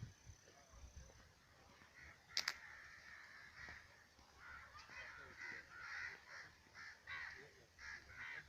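Faint, repeated cawing of crows, coming thicker in the second half. A sharp click sounds once about two and a half seconds in.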